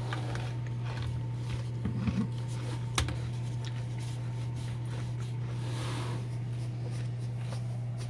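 Quiet eating and handling noises: scattered small clicks and rustles, with one sharper click about three seconds in, over a steady low hum.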